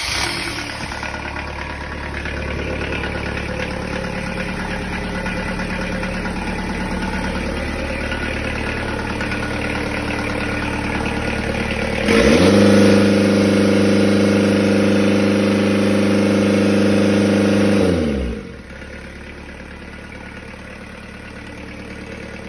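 Kubota V1305 four-cylinder diesel engine on a test run, idling just after starting. About twelve seconds in, it is revved up quickly and held at a higher, louder speed for about six seconds, then drops back to a steady idle.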